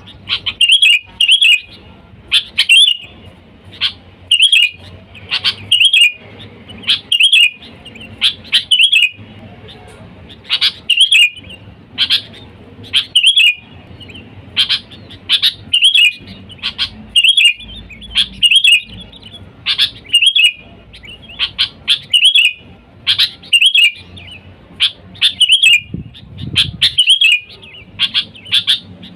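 Sooty-headed bulbul (kutilang) giving its basic call: short, loud chirping phrases repeated about once or twice a second, the kind of call used to lure in wild bulbuls.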